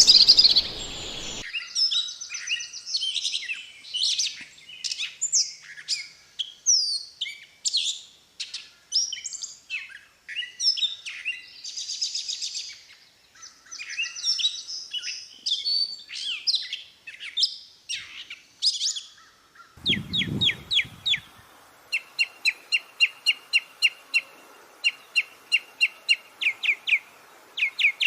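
Songbirds singing, in two separate recordings: first a rich, varied song of many quick, high, changing phrases, then, after a cut about two-thirds of the way through, a bird repeating one short note in quick, evenly spaced runs over a faint background hiss.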